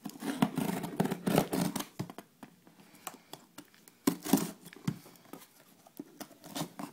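Product packaging being handled and opened by hand: irregular rustling, scraping and tearing with sharp clicks, in bursts.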